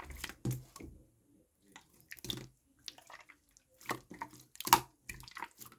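Pink slime being squished and pressed by hand, giving irregular wet pops and clicks, the loudest about three-quarters of the way through.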